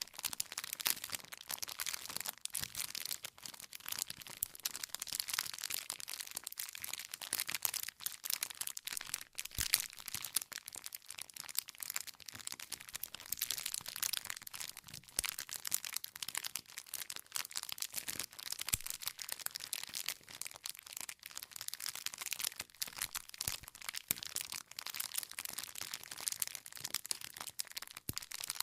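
Wood campfire crackling steadily, a dense run of small snaps and pops from burning firewood, with a few louder pops scattered through.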